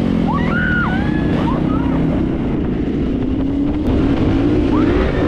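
Dirt bike engine accelerating, its pitch climbing steadily from about two seconds in, with brief high rising and falling cries over it.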